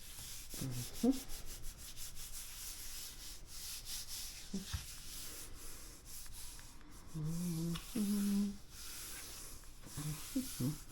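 Paper being rubbed by hand against an inked gel printing plate, a soft continuous scuffing as the print is transferred, with a brief hummed "mm-hm" about seven seconds in.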